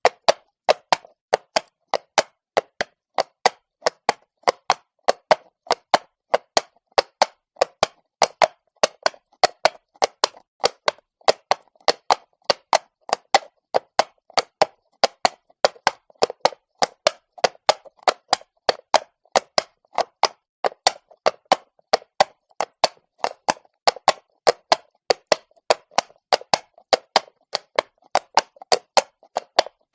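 Horse's hooves striking cobblestones at a walk: a steady, even clip-clop of sharp knocks, about three a second.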